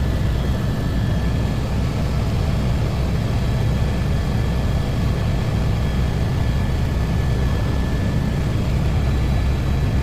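Helicopter running steadily: a constant low engine and rotor rumble with a thin, steady high whine over it.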